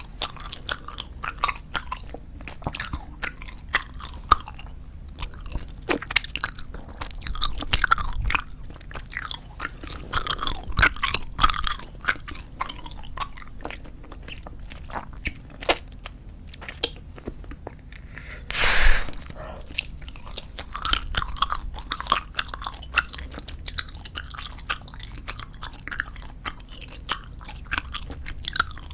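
Close-miked chewing of soft squeeze-tube bubblegum: wet clicks and smacks come irregularly throughout. About two-thirds through there is one louder burst of noise lasting about half a second.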